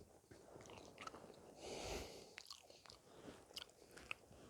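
Faint chewing close to the microphone, with scattered small clicks and a louder crunch about two seconds in.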